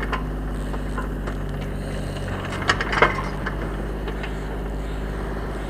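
An engine idles steadily throughout. Around the middle, a few sharp knocks come from hand tools striking wood and ballast as old railway ties are dug out.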